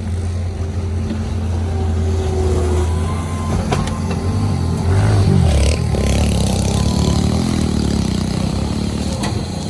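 An engine running steadily at a low pitch, its note shifting up and down about five to six seconds in, with a few sharp knocks over it.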